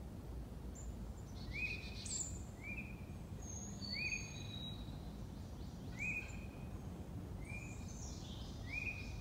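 Several birds singing in a swamp forest. One repeats a short rising note about once a second, while others add higher chirps and trills, all over a steady low rumble of outdoor background noise.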